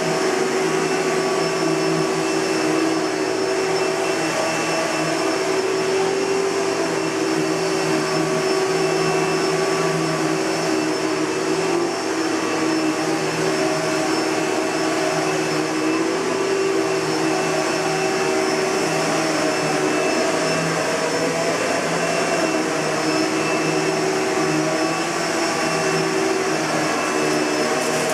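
Kenmore Progressive (Panasonic-built) bagged upright vacuum cleaner running steadily: a constant motor whine over rushing airflow.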